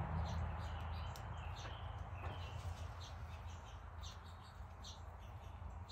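Small birds chirping repeatedly, short high notes scattered throughout, over a low steady hum.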